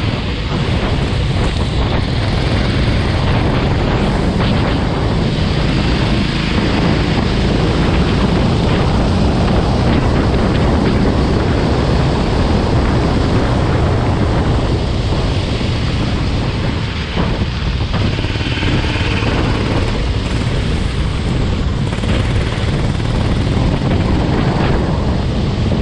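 Go-kart engine running on track, with wind buffeting the microphone.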